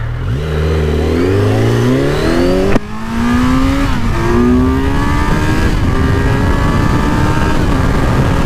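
Kawasaki Z900's inline-four engine accelerating hard from a standstill, revs climbing steeply and dropping back at three upshifts, at about three, four and six seconds in. Wind noise on the microphone builds as the speed rises.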